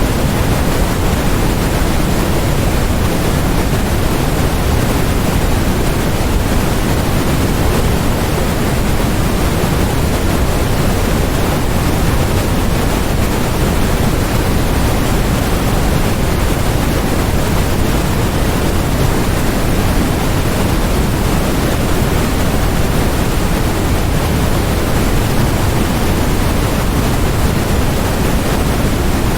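Steady electronically generated masking noise, sold as white noise: an even, unbroken hiss with more weight in the low end than the highs, close to pink noise.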